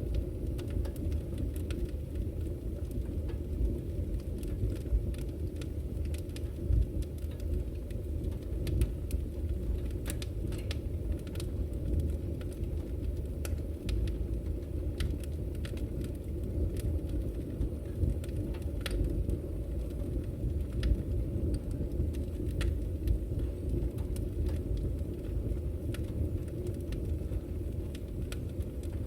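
Wood fire burning in a fireplace: a steady low rumble of the flames with irregular sharp crackles and pops from the firewood.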